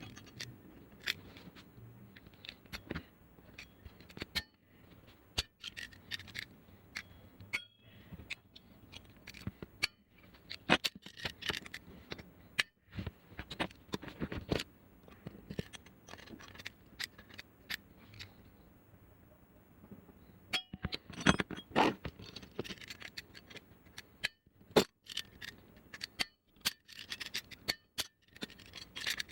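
Handling noises of repair work: irregular clicks, taps and scrapes of tools and small parts worked by hand, with a brief quieter spell just past the middle.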